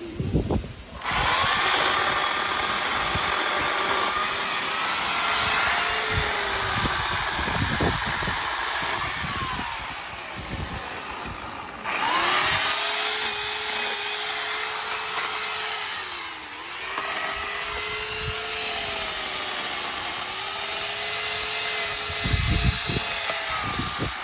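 A chainsaw running steadily, starting about a second in. Its engine pitch sags and recovers as it takes load, it eases off briefly around ten seconds, then it comes back at full speed.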